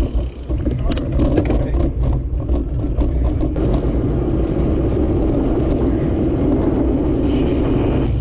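Steady rumble of wind and road noise from riding a bicycle along a road, with a rushing sound that swells about halfway through.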